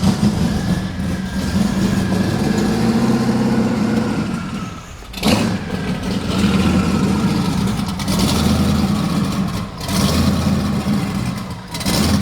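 A car engine running with a steady low rumble. The sound dips briefly about five seconds in and again near the end.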